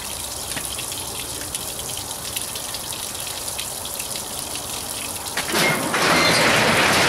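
Water running and splashing from a hose that supplies cooling water to an outboard motor that is not running. A much louder rush of noise starts about five and a half seconds in.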